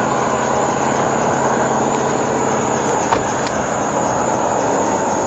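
Steady road and engine noise heard inside a moving car's cabin, with a couple of faint clicks about three seconds in.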